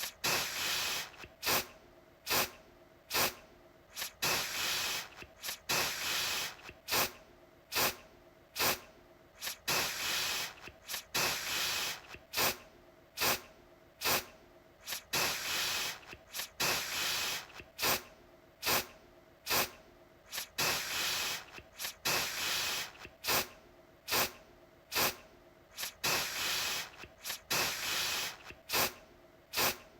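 Aerosol deodorant can spraying in short repeated bursts, each a hiss of about a second set off by a sharp click, roughly one burst a second.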